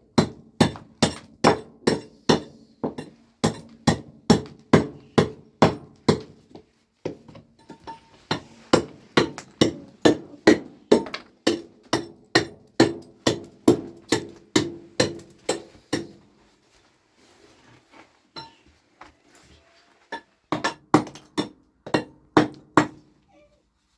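Steady hammering, about three blows a second, each with a short metallic ring. It stops for about four seconds past the middle, then a handful of blows resume near the end.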